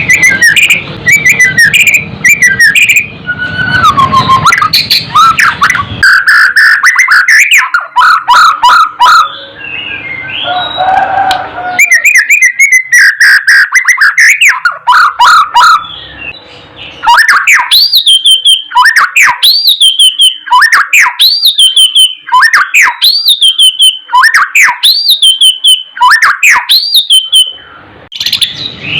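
White-rumped shama (murai batu) singing loud, varied whistled phrases. About halfway through it settles into one rising-and-falling whistle repeated about ten times, roughly once a second.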